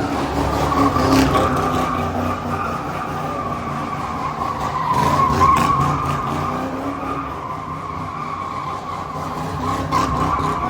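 A car spinning donuts: tyres squealing in one long steady screech over the engine running hard, loudest about halfway through.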